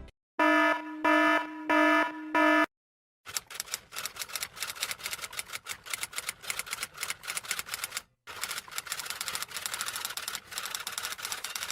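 Four short, evenly pitched electronic beeps, then a long run of rapid, irregular key clicks from typing, with a brief pause partway through.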